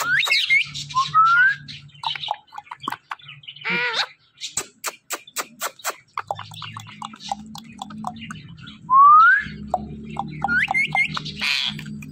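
Pet parrot whistling short rising notes and chirping amid runs of sharp clicks, with a wavering, harsher call about four seconds in and a loud rasping burst near the end.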